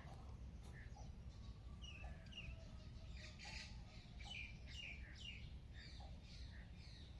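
Several small birds chirping faintly in a dawn chorus of quick, short calls that thicken in the middle, with a few longer, lower whistled notes, over a steady low rumble.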